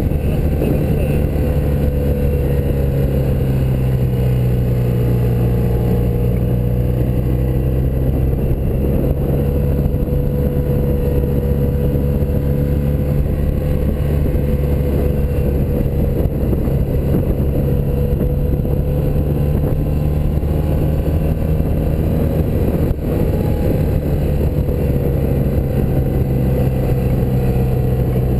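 Air-cooled flat-twin boxer engine of a 1984 BMW R100RS running at a steady road speed, heard from the bike while riding, with wind and road noise. The engine pitch sags slightly and then recovers, and there is one brief click about three-quarters of the way through.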